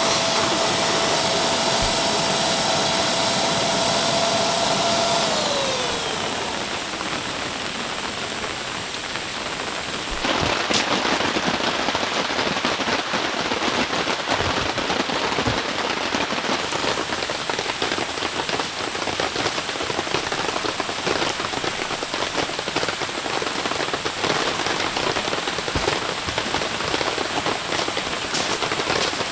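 A small electric motor runs with a steady whine, then winds down about five seconds in, its pitch falling as it stops. After that, steady heavy rain patters on surfaces, growing louder about ten seconds in.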